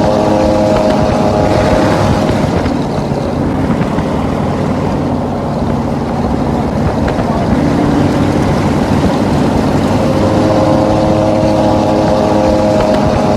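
Lifted pickup truck's loud straight-piped exhaust running steadily at highway cruise, a constant pitched hum over rushing road noise. The hum fades for several seconds in the middle and returns strongly near the end.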